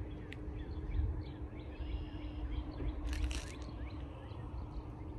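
Low rumble on an outdoor phone microphone with faint birds chirping here and there in the trees, and a brief scratchy burst about three seconds in.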